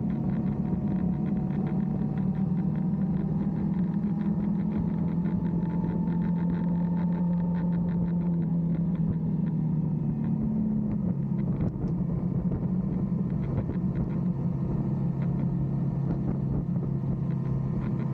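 Motorcycle engine running at a steady speed with road rumble, its note dropping a little about halfway through.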